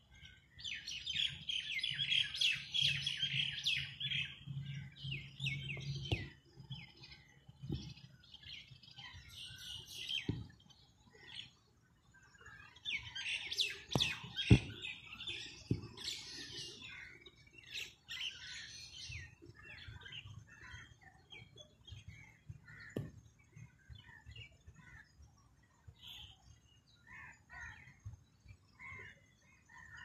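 Small birds chirping in fast, dense runs of high notes, loudest in the first few seconds and again around the middle, with scattered single chirps after that. A few sharp knocks sound among them, the loudest about halfway through.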